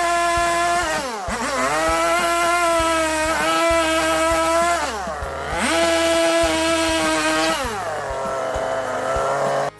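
High-speed power tool motor running, its pitch sagging and recovering three times as it bogs under load while cutting into wood; it cuts off suddenly at the end.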